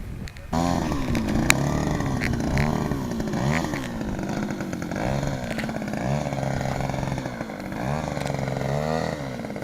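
Two-stroke 26cc petrol engine of a large RC model plane starting about half a second in, then revved up and down repeatedly on the throttle.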